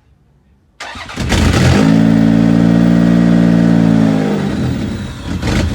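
Supercharged Toyota 3MZ-FE V6 being started for the first time: the starter cranks for about a second, the engine catches and runs with a steady note, then its revs drop away about three seconds later.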